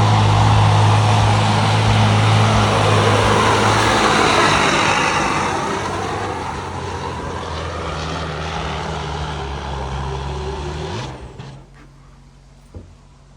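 Pulling truck's engine running hard under load during a truck pull, with a low steady drone and a higher noisy roar. About five seconds in the pitch falls and the engine eases off, and the sound cuts off abruptly about eleven seconds in.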